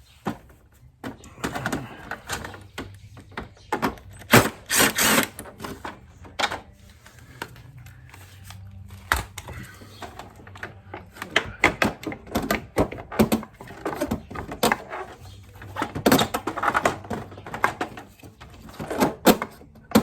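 Irregular clicks, knocks and rattles of hand tools and metal parts being handled while a motorcycle's engine covers and screws are taken off.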